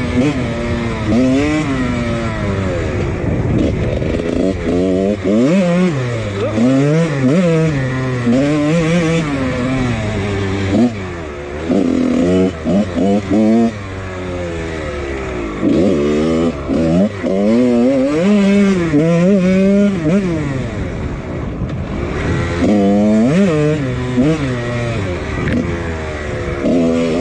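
1999 Husqvarna CR125's single-cylinder two-stroke engine, fitted with a Pro Circuit exhaust, being ridden hard: the pitch climbs and falls over and over as the rider opens and closes the throttle through the gears, with brief drops in sound where the throttle is chopped.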